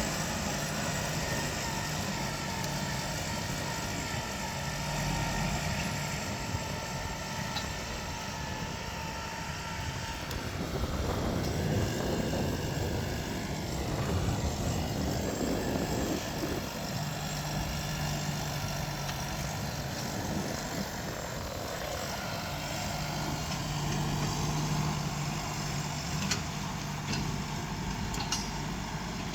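Deutz-Fahr 5125G tractor's diesel engine running steadily, with a rougher, noisier stretch about a third of the way in.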